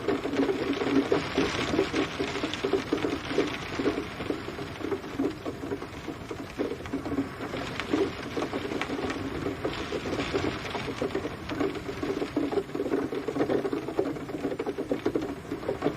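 Steady rain, a dense continuous patter of drops with no thunder.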